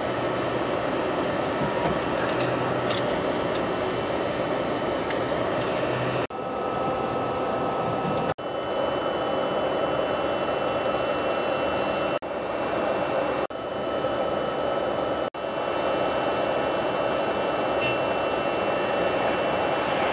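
Steady running noise inside a moving passenger train carriage, with a faint steady hum over the rumble. The sound cuts out for an instant about five times.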